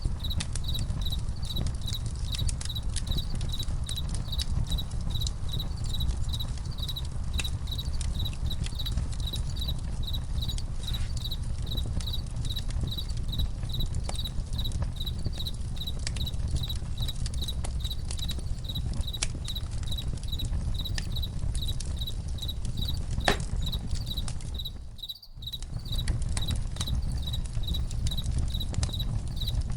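Crickets chirping in a steady, evenly spaced pulse over a crackling campfire, with scattered sharp pops and a low rumble. About 25 seconds in, everything briefly fades nearly out and returns.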